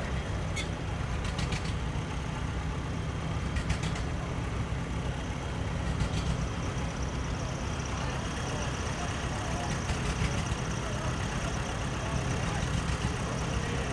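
Antique tractor engines running steadily, with a few short clicks in the first four seconds.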